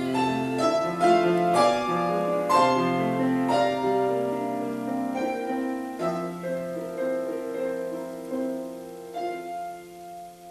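Piano playing on its own between sung phrases: a run of struck notes and chords over the first few seconds, then slower held chords that fade away toward the end.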